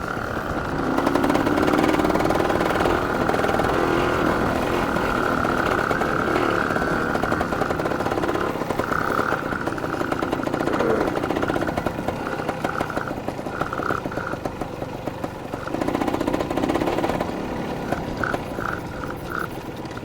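Dirt bike engine running while being ridden, its revs and loudness rising and falling as the throttle is worked.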